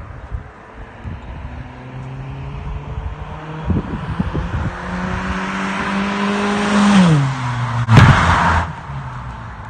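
Honda Accord running with its muffler deleted: the open exhaust grows louder and rises a little in pitch, then drops sharply in pitch about seven seconds in. A sharp crack comes about a second later, followed by a brief noisy rush.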